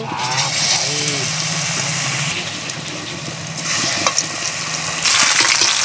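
Besan-battered hingcha (helencha) leaves frying in hot refined oil in an aluminium kadai: a steady sizzle that jumps louder about five seconds in, as more battered leaves go into the oil.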